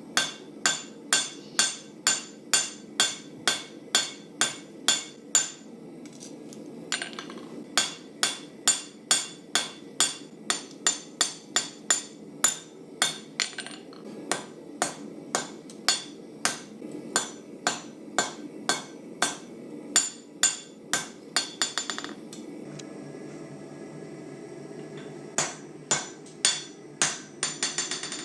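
Hand hammer forging hot carbon steel on an anvil: rapid, evenly paced blows, about two to three a second, each with a bright metallic ring. The hammering pauses briefly twice, about six seconds in and again near the end, under a steady low hum.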